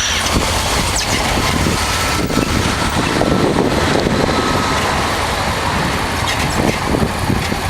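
1988 Honda Transalp's 600 cc V-twin engine running steadily under way, mixed with a steady rush of road and wind noise.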